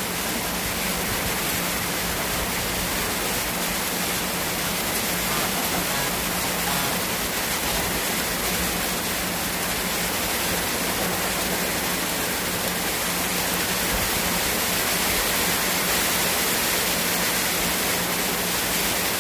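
Rain falling steadily, an even hiss of water that does not let up.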